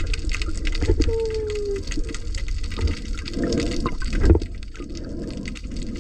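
Water sloshing and gurgling around the camera, with a short falling tone about a second in and a sharp knock a little past four seconds in.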